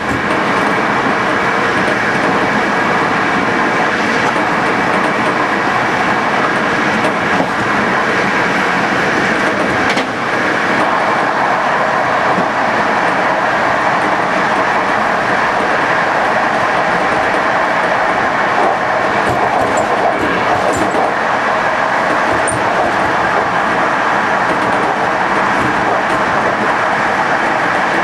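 Passenger train running steadily along the track: a continuous rumble of wheels on rail, with a faint knock about ten seconds in.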